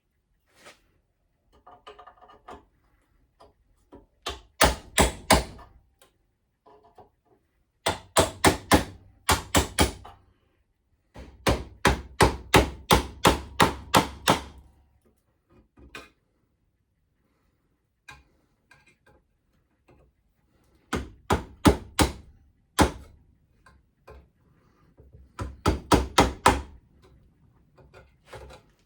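Hammer blows in five quick runs of roughly four to a dozen strikes each, several strikes a second, with pauses and a few faint knocks between the runs.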